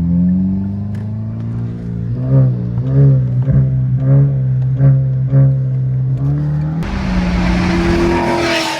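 Car engine running steadily under way, its pitch bumping up briefly several times as the throttle is blipped. About seven seconds in, a loud rushing roar comes in and builds, then drops away right at the end.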